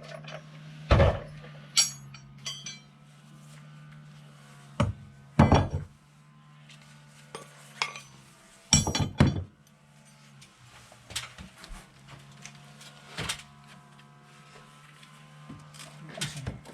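Irregular knocks and metallic clinks, over a steady low hum.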